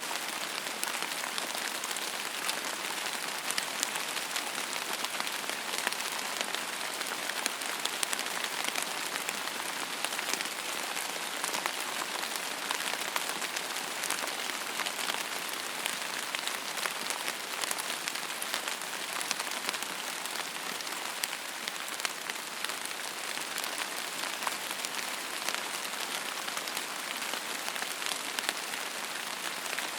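Steady rain falling on a hard surface, a continuous hiss with many separate drops ticking through it.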